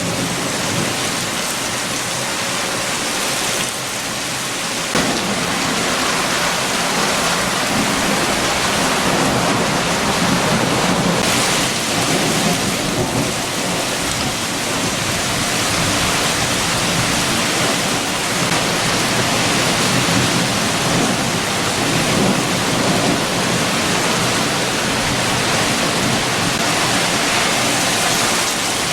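Heavy rain with strong wind: a steady, dense hiss of rainfall with a deeper rumble underneath, growing a little fuller about five seconds in.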